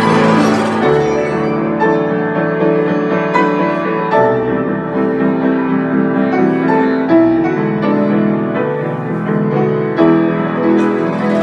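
Guzheng and piano playing a duet, the piano most prominent, with layered notes and chords ringing on.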